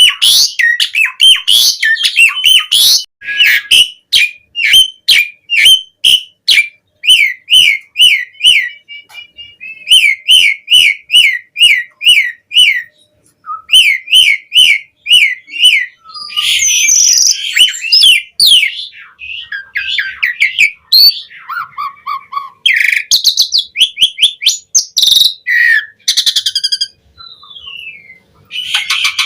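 Asian pied starling (jalak suren) singing a long, varied song. It gives runs of quick repeated whistled notes, a few a second, broken by harsher, rougher phrases.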